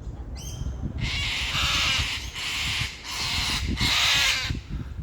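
Agitated large birds calling at a tree climber: a short pitched call, then two long, harsh screeches of about a second and a half each.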